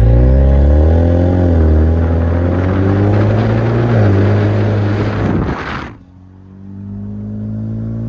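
Muffler-deleted 2021 Mustang EcoBoost's turbocharged 2.3-litre four-cylinder exhaust running loud on the road, its note climbing and dipping with engine speed. About six seconds in it cuts off suddenly to a quieter, steady drone.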